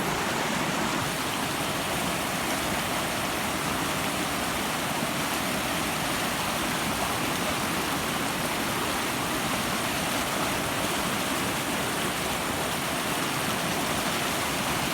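Rain-swollen creek rushing fast, a steady, even roar of running water.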